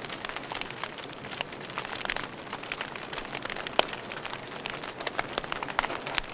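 Wood fire crackling in a fireplace: a steady hiss with irregular sharp pops and snaps, one louder pop near the middle.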